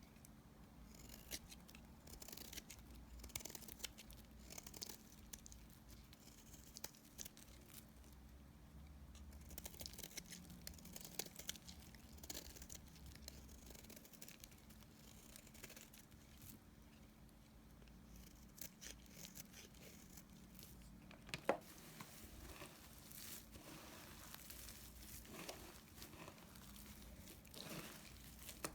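Small leftover bars of soap being cut: soft scraping and crackling with scattered crisp clicks, and one sharper crack about three quarters of the way in.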